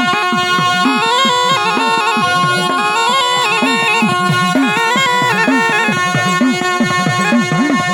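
Gujarati dakla devotional music to Mahakali: a reedy wind melody stepping over held drone notes, with low drum strokes that swoop up and down in pitch about twice a second.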